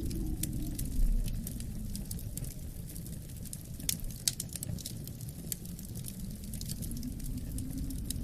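Wood fire crackling, with irregular sharp pops and snaps, over a low rumble of wind that eases over the first few seconds and swells again near the end.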